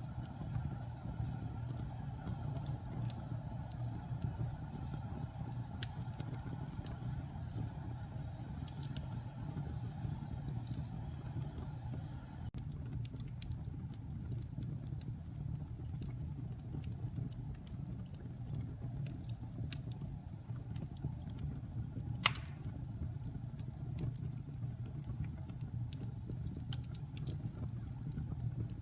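Wood fire burning in a fireplace: a steady low rumble of flame with scattered crackles and small pops, and one sharp, louder pop about two-thirds of the way through.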